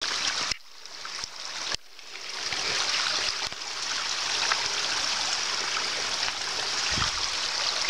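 Steady rushing hiss of running water, dropping away abruptly twice in the first two seconds before coming back.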